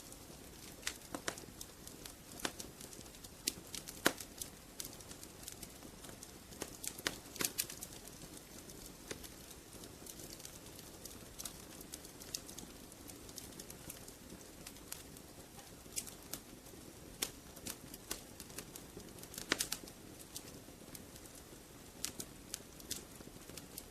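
Wood fire crackling in a fireplace: a soft steady rush of flames with irregular sharp pops and snaps, a few louder ones among them.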